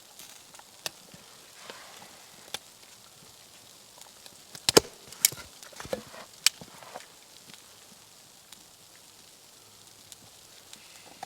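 Wood being chopped or broken by hand: a few scattered sharp knocks, then a quick cluster of about five loud cracks near the middle.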